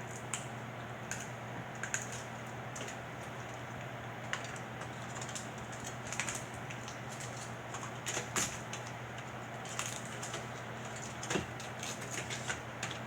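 Irregular small clicks and sharp cracks of snow crab leg shells being snapped and picked apart by hand, with the loudest cracks about eight and eleven seconds in, over a steady low hum.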